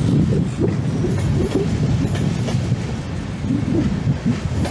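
Locomotive-hauled passenger train running along the far platform, a steady low rumble of the coaches rolling on the rails.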